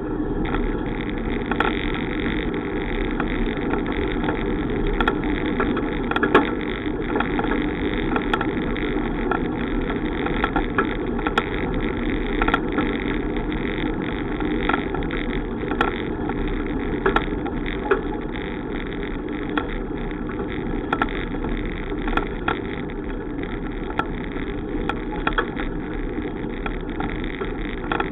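Steady wind and road noise from riding a bicycle, with occasional small knocks and rattles.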